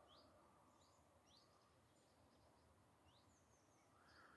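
Near silence outdoors, with faint background hiss and a few short, high bird chirps now and then.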